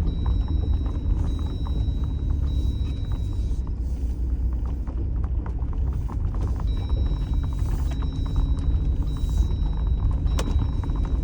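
Jeep engine and tyres rumbling steadily while it drives in four-wheel drive up a rough dirt road, with frequent small knocks and rattles over bumps and one sharp click about ten seconds in.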